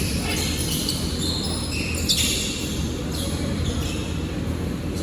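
Basketball game play: a ball bouncing on the court over a steady low hall rumble, with a brief high-pitched squeak about two seconds in.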